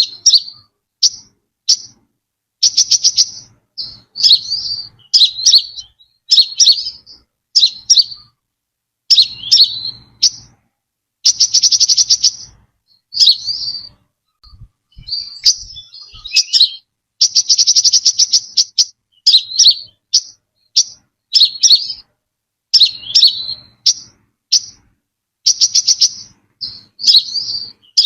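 Brown-throated sunbird calling: sharp, high chirps repeated in quick phrases, broken now and then by rapid, buzzy trills about a second long.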